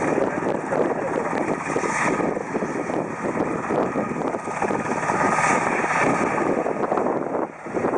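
PZL Mielec S-70i Black Hawk helicopter's rotors and twin turboshaft engines running, a loud steady rotor chop that briefly drops out near the end.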